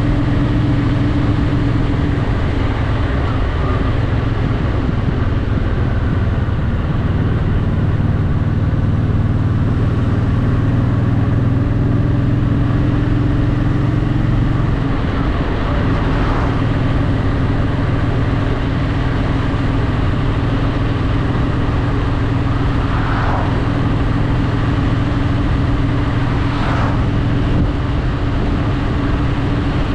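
Honda Shadow VT750's V-twin engine running steadily while the motorcycle cruises. Its note changes about halfway through, then settles again.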